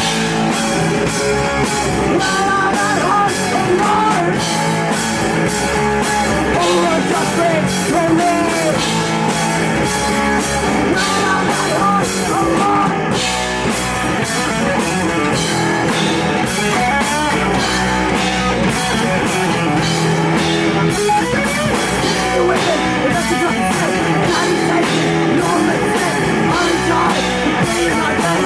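Live punk rock band playing a song: distorted electric guitar and a drum kit with fast, steady cymbal and snare hits, with a vocalist singing over them.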